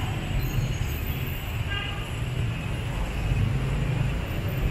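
Lamborghini Aventador Roadster's V12 engine running at low revs as the car creeps forward, a steady low rumble.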